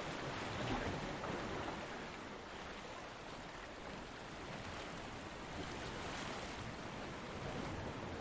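Ocean surf breaking and washing on a beach: a steady rushing noise that swells and eases gently, a little louder about a second in.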